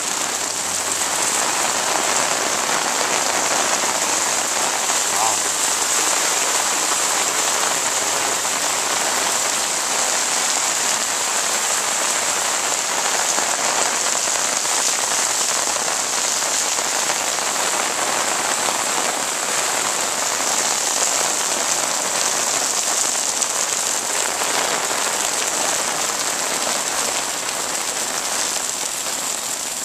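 Heavy rain pouring onto wet pavement in a cloudburst, a dense, even hiss that stays steady throughout.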